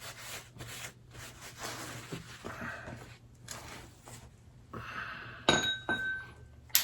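Soft rubbing and handling noises of greasing and handling small steel motorcycle parts, then two sharp metallic clinks about half a second apart, near the end, each ringing briefly, as metal parts knock together or are set down.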